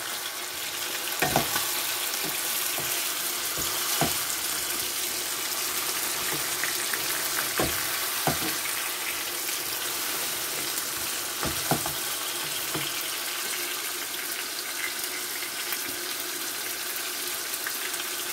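Chicken pieces, chopped onions and ginger-garlic paste sizzling steadily in hot oil in a non-stick frying pan. A wooden spatula stirs them and knocks against the pan a handful of times.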